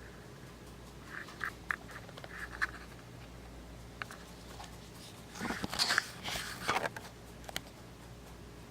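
Scattered small clicks and a burst of rustling handling noise about five and a half to seven seconds in, over a faint steady hum.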